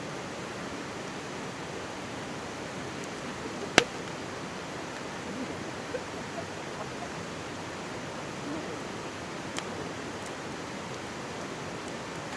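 Mountain stream babbling steadily beside a burning wood campfire; the firewood gives one sharp loud pop about four seconds in and a few fainter crackles later.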